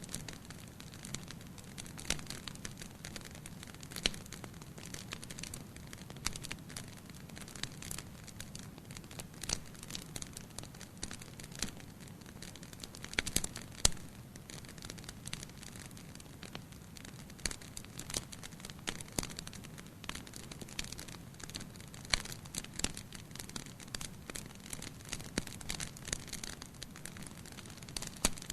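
Wood fire burning in a fireplace: a steady low rush of flame with irregular crackles and sharp pops, a few louder pops about halfway through.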